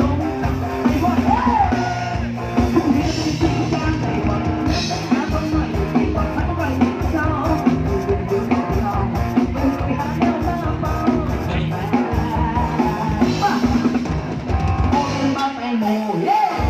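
Live band music with a drum kit keeping a steady driving beat under pitched instruments.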